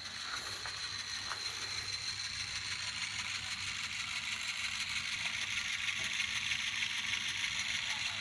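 Skewer rotator running on its RD-09 gear motor and chain drive: a steady hum and whir with a few faint clicks.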